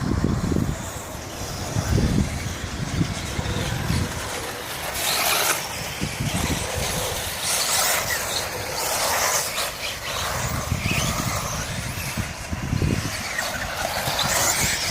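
4WD radio-controlled model buggies racing on a wet track, swelling up and fading away as they pass, their tyres hissing through spray.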